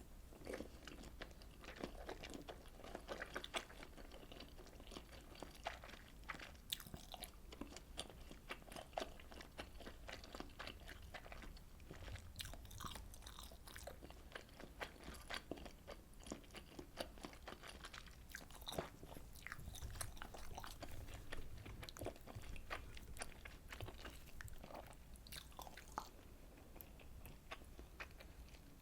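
Close-miked chewing and biting of Korean fish cake soup with fish cakes and rice cakes, a steady run of small sharp mouth clicks and crunches.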